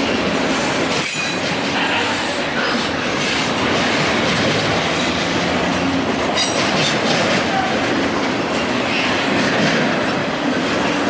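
Union Pacific double-stack intermodal freight train rolling past close by: a steady, loud rumble and clatter of steel wheels on rail, with a few brief high wheel squeals.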